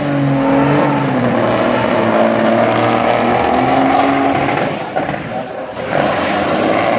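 A motor vehicle's engine running steadily, dropping off briefly about five seconds in.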